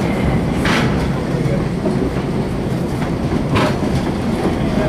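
Passenger train rolling along the track: a steady, loud rumble of the cars, with two short, sharp clacks, about a second in and again some three seconds later.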